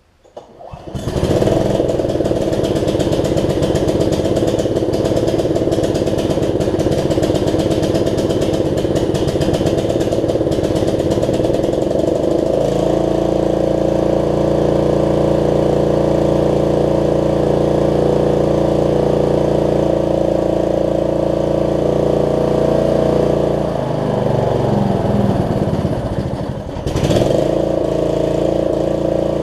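Snapper rear-engine riding mower's engine starting and running steadily. Its note settles about twelve seconds in, and near the end it slows briefly and revs back up, as the repaired throttle is tested.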